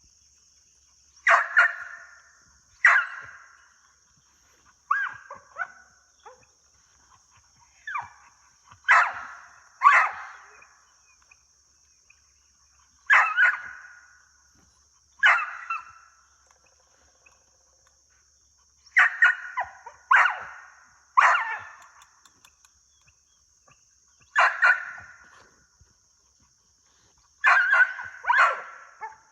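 A dog barking again and again, single barks and quick pairs or threes about a second apart, with pauses of a few seconds between groups. A steady high-pitched drone of insects runs underneath.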